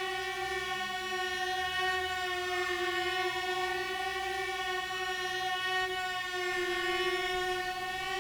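A long, steady whistle-like drone on one pitch with many overtones, like a drawn-out train whistle. A second tone glides downward about two to three seconds in.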